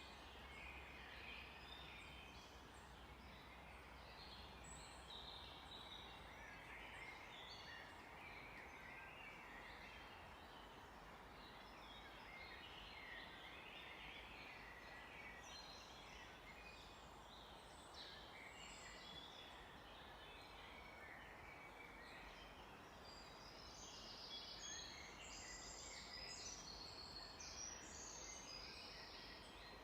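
Many small birds chirping and singing together over a faint steady hiss, busier in the last several seconds.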